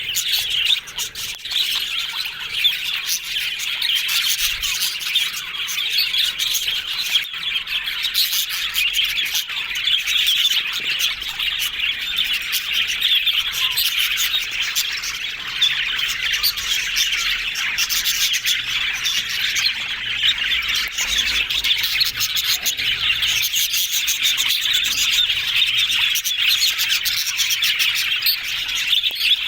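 Budgerigars chattering and warbling nonstop, a dense mix of chirps and squawks from several birds at once.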